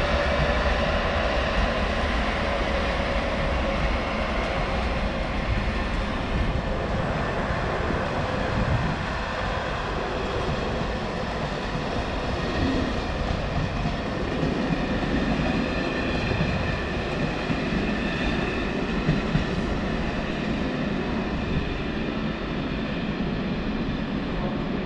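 Train running, a steady noise with a few faint steady tones over it.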